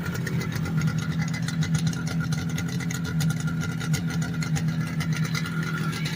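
1973 Yamaha RD350's air-cooled two-stroke parallel twin idling steadily, with a fast, even beat of firing pulses.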